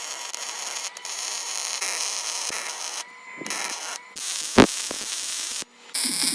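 Welder crackling and hissing steadily on a steel truck frame, in several clips that cut off abruptly. There is a single sharp metal knock about four and a half seconds in.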